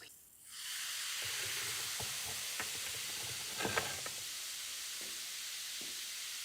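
A steady hiss of a pressurised spray or air jet, starting about half a second in, with a few faint clicks over it.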